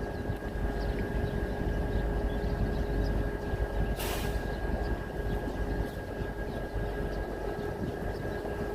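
Steady low rumble and hiss of outdoor background noise with a constant hum running through it, and a short burst of hiss about four seconds in.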